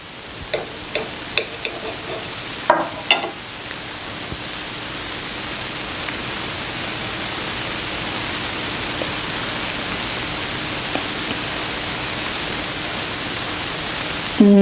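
Steady hiss with a faint low hum, swelling over the first few seconds and then holding level, with several light clicks in the first three seconds.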